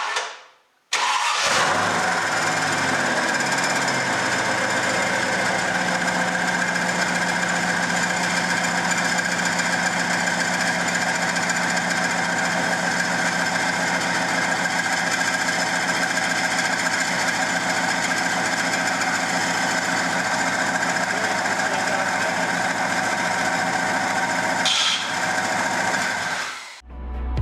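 1994 Dodge Dakota's engine catching about a second in, its speed dropping over the next few seconds, then running steadily at idle. A brief high squeak sounds near the end.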